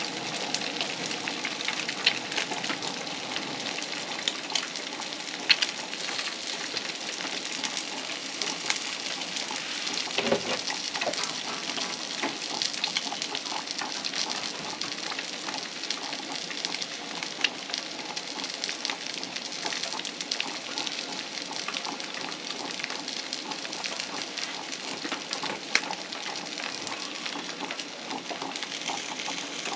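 Eggs and diced potatoes sizzling in oil in a frying pan on a camp stove, a steady crackling hiss with many small pops.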